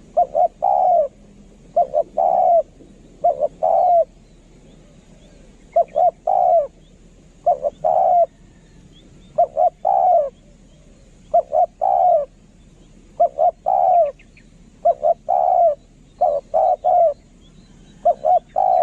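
Spotted dove cooing its song over and over, about eleven phrases, each a couple of short coos followed by a longer coo, repeated every one to two seconds. It is a decoy call used to lure doves.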